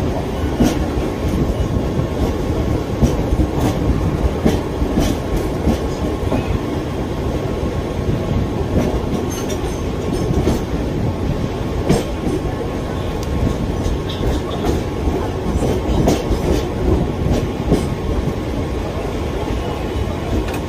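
Mumbai suburban electric local train running, heard from its open doorway: a steady rumble of wheels on the track, broken by irregular sharp clacks as the wheels cross rail joints.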